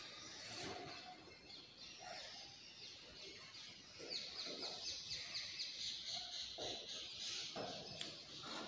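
Faint bird chirping: a fast run of short, high chirps, about five or six a second, beginning about four seconds in and lasting a few seconds, over faint room noise.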